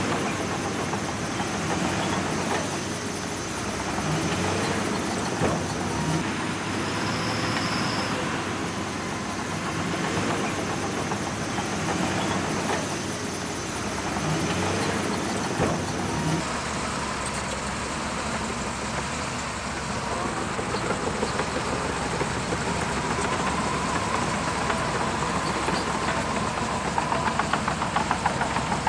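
Bulldozer's diesel engine running steadily as the machine works. The sound changes abruptly a little past halfway, and a fast, even clatter from the engine comes in toward the end.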